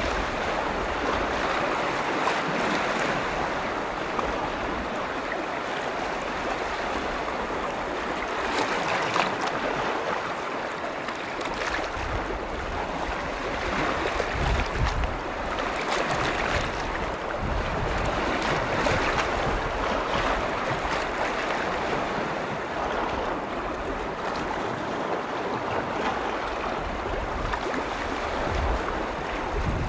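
Waves from Lake Vänern washing against the shore, swelling and easing every few seconds, with wind rumbling on the microphone at times.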